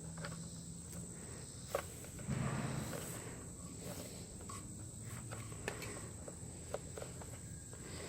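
Faint handling noise of synthetic winch rope being worked by hand: soft rustling and a few scattered light clicks as a splicing tool is pushed back and forth through the braid. A steady high-pitched whine runs underneath.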